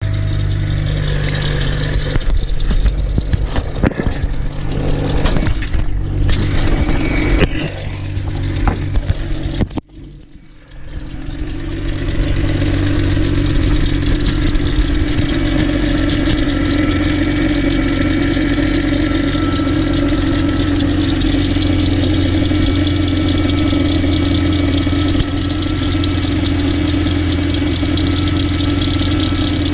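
Car engine, plausibly the Mk3 GTI's VR6, running unevenly with clicks and knocks for about ten seconds. It drops away sharply for a moment, then settles into a steady idle.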